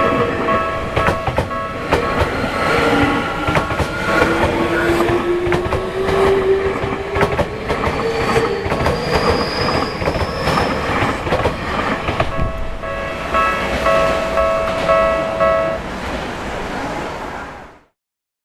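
Level-crossing warning alarm ringing while a Tokyu Oimachi Line electric train passes over the crossing, its wheels clacking over the rail joints and its motors giving a rising whine. The crossing alarm sounds clearly again about twelve seconds in and stops about sixteen seconds in; the sound cuts off suddenly near the end.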